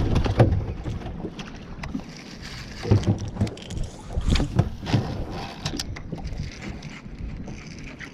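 Wind buffeting the microphone over water moving against a boat, with scattered knocks and clatters, a cluster of them about three to five seconds in.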